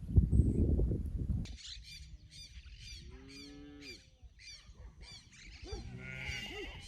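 A low rumble that cuts off about a second and a half in, then birds chirping in quick repeated notes, with a cow mooing twice underneath.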